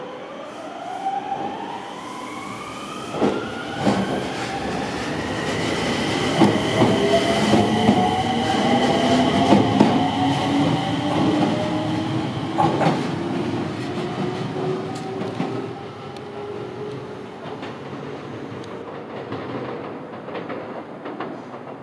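Enshu Railway red electric train running through the station. Its traction-motor whine rises in pitch over the first several seconds as it picks up speed, with the wheels clicking over rail joints. The sound fades in the last few seconds as the train moves off.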